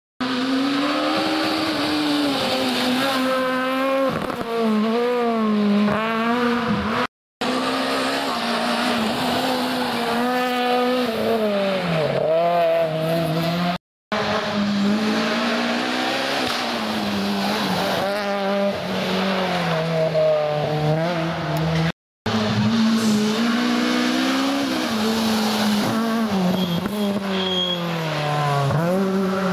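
Rally car engines revving hard, their pitch climbing and dropping again and again through gear changes and throttle lifts as the cars drive a stage. The sound breaks off abruptly three times between separate passes.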